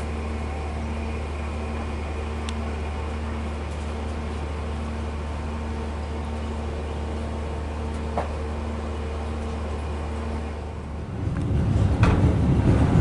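Steady low mechanical hum inside a passenger train carriage, with a faint single click about 8 seconds in. About 11 seconds in, a louder rumble with clatter takes over.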